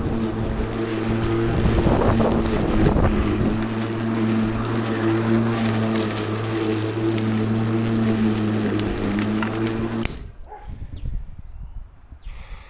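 Ozito PXC 36V (2 x 18V) battery lawn mower running with a steady motor hum as its blade cuts grass, rougher for a moment about two seconds in. The motor cuts off suddenly about ten seconds in.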